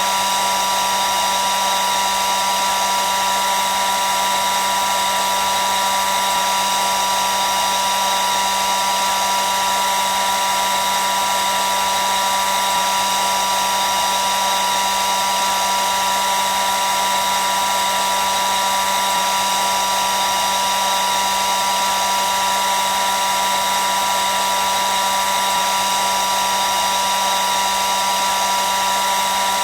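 Hair dryer running steadily: an even rushing of air with a steady motor whine.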